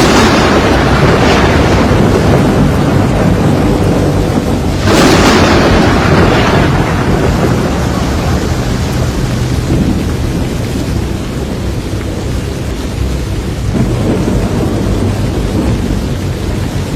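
Thunderstorm: a sudden loud thunderclap at the start and another about five seconds in, each rolling away over a few seconds, and a weaker rumble near the end, over steady rain.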